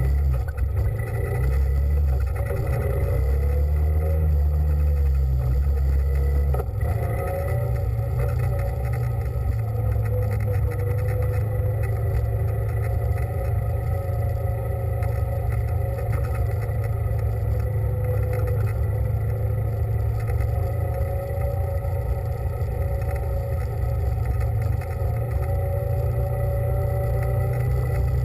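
A small engine running steadily under way, its pitch wavering slightly, over a heavy low rumble.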